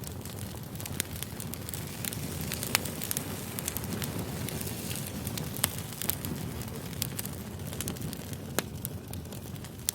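Campfire burning: a steady low rush of flame with wood crackling and scattered sharp pops.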